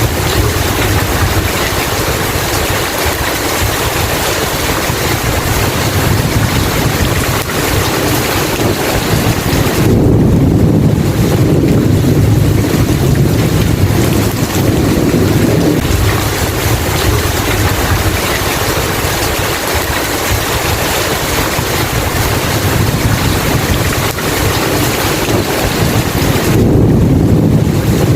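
Steady heavy rainfall hissing, with low rolling rumbles of thunder swelling about ten seconds in and again near the end.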